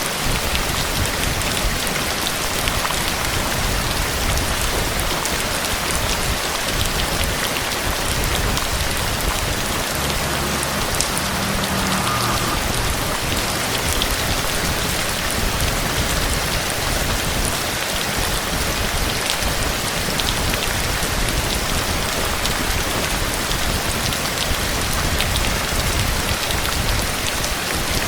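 Rain falling steadily: a dense, even hiss with scattered individual drops ticking.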